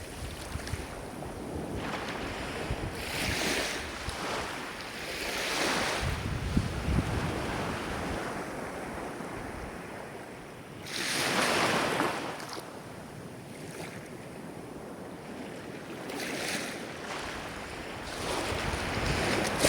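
Ocean waves breaking and washing in surges, with the loudest wave about halfway through. A low rumble of wind runs on the microphone.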